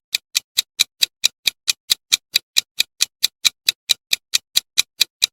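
Countdown timer sound effect: a quick, even clock-like ticking, about four or five sharp ticks a second.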